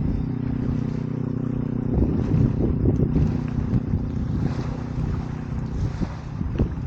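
Campfire burning with a few sharp crackles over a steady low rumble of wind on the microphone.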